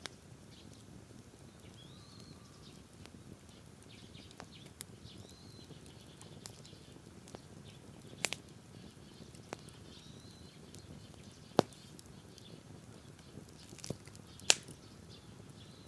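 Wood campfire crackling: scattered sharp pops every second or two over a low steady hiss, the loudest pops about two-thirds of the way in and near the end. Faint bird chirps in the background.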